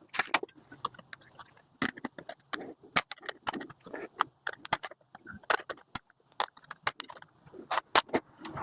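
Hand shears cutting sheet steel: an irregular run of short, sharp snips and crunches.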